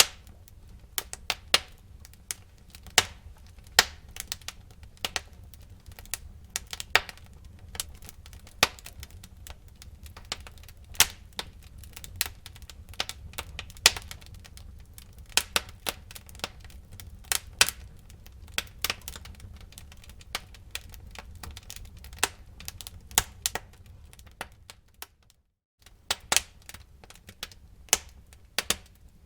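Wood fire burning in a fireplace, with irregular sharp crackles and pops from the burning logs over a low, steady rumble of the flames. The sound drops out for about half a second near the end.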